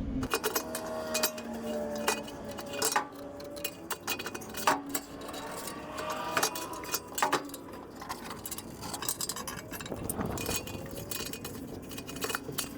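Metal hand tools clinking and tapping against metal engine parts: many separate light clinks and clicks scattered irregularly.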